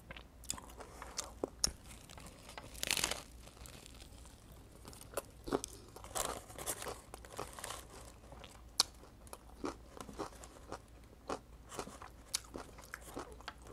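Person biting and chewing a crusty Vietnamese baguette sandwich (bánh mì): irregular crunches and mouth clicks, the loudest about three seconds in.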